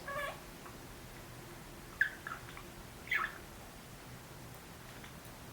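Budgerigar giving a few short chirps, one near the start, two about two seconds in, and a falling one about three seconds in.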